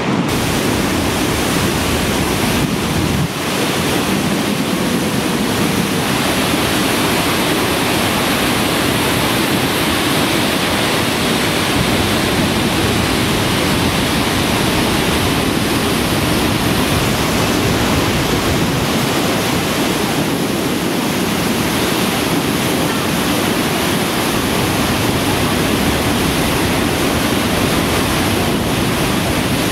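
Steady, loud rush of water falling at Niagara Falls, one even unbroken roar of spray and churning water.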